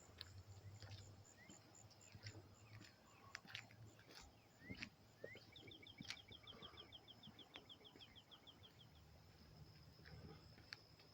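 Faint outdoor birdsong: scattered short chirps and rising whistles, and a rapid trill of repeated notes lasting about three seconds in the middle, over a steady faint high-pitched hum.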